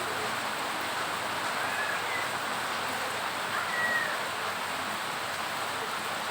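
Heavy rain falling, a steady even hiss, with two faint high chirps about two and four seconds in.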